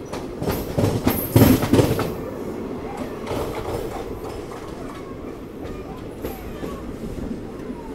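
Passenger train running along the track, heard from an open coach doorway: a steady rumble of the wheels with clickety-clack knocks over the rail joints. The knocks are loudest in a cluster about a second or two in, then settle into an even run.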